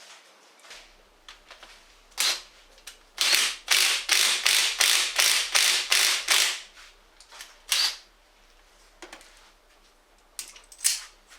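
Sharp metallic knocks from tool work on a flywheel puller, freeing the magneto rotor from its tapered crankshaft. A loud run of about a dozen quick knocks, roughly three a second, with single knocks before and after.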